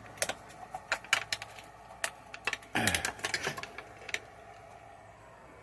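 Scattered sharp clicks and light ticks, irregularly spaced, with a short noisier rustle about three seconds in.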